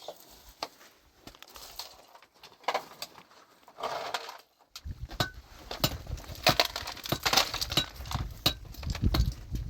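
Irregular knocks and clinks of hard objects handled or struck, with a low rumble joining about halfway through.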